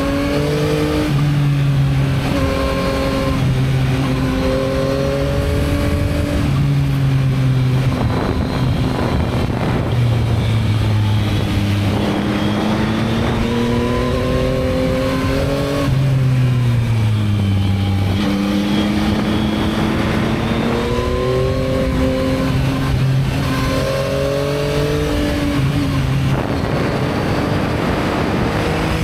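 Yamaha MT-09's 890 cc three-cylinder engine on its stock exhaust, heard from the moving bike: the engine note repeatedly rises under acceleration and drops back at each gear change or easing of the throttle. About two-thirds through, the pitch falls for a couple of seconds as the bike slows, then climbs again.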